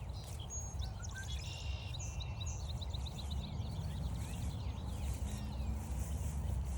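A songbird singing a quick, varied song of many short high notes for about four seconds, over a steady low rumble.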